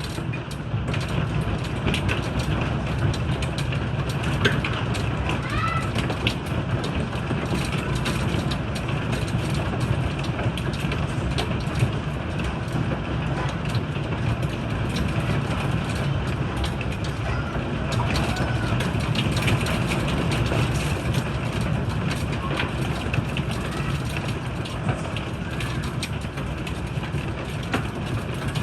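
Heavy rain falling steadily with hailstones striking hard surfaces, many sharp clicks scattered densely through the rush of water.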